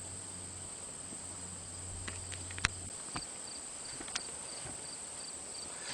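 Faint insects chirping in a steady high drone, with a low hum that cuts off about halfway through and a few sharp clicks.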